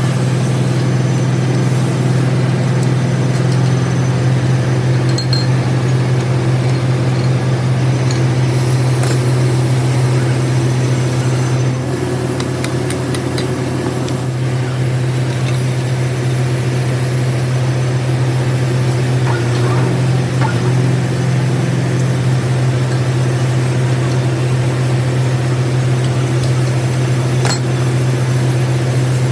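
Workshop machinery running steadily with a strong, constant low hum, with a few light metallic clinks over it.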